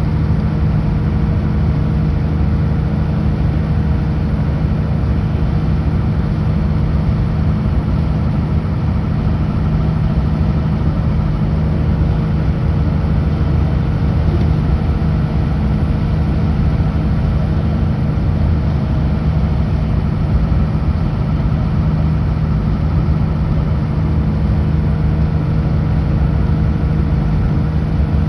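Kenworth W900L semi truck's diesel engine running with road noise at a steady highway cruise, an even low drone that holds without change.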